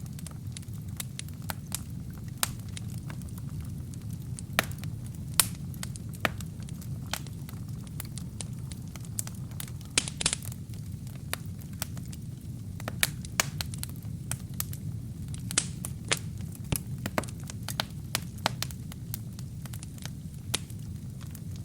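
Wood fire burning in a fireplace: irregular sharp crackles and pops over a steady low rumble of the flames, with a quick cluster of pops and a short hiss about ten seconds in.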